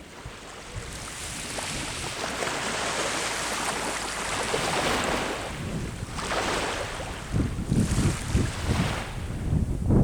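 Sea waves breaking and washing up the shore, one surge building over the first few seconds and more following near the end. Gusts of wind buffet the microphone in the later seconds.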